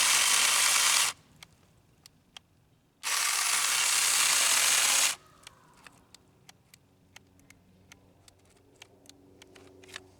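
Saker mini battery chainsaw running in two short bursts, each stopping suddenly, on a battery that has just been run flat; faint scattered clicks follow.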